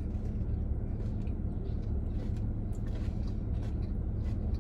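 Steady low rumble of a car cabin, with faint scattered crunchy clicks of someone chewing a fried corn dog.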